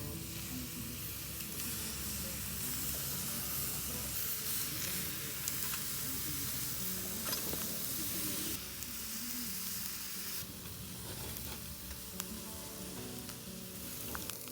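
Food sizzling as it cooks over a small camp grill: a steady hiss that changes abruptly about 8.5 and again about 10.5 seconds in.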